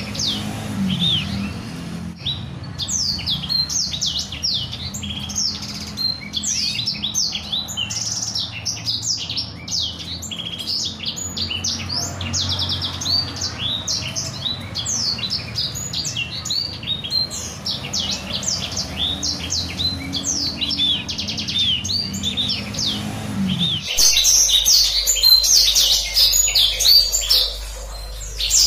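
Blacksang songbird singing a long, fast rolling song of rapid high chirps and trills. A low hum lies under it until an abrupt cut near the end, after which the song is louder and denser.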